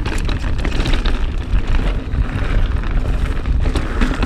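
Mountain bike riding fast down a dirt trail: heavy wind rumble on the camera microphone, with the rush of tyres on packed dirt and scattered clicks and rattles from the bike.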